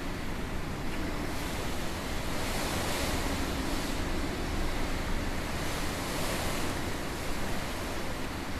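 Strong typhoon wind rushing without pause, swelling and easing in gusts every second or two.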